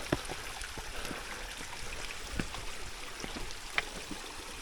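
Irrigation water trickling and running steadily in the rice terraces, with a few sharp clicks: one just after the start, one about halfway and one near the end.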